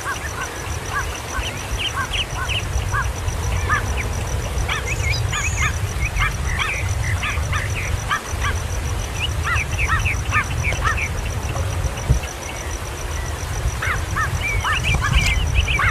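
Baby kingfishers calling: many short chirping calls in quick runs, over a steady low rumble.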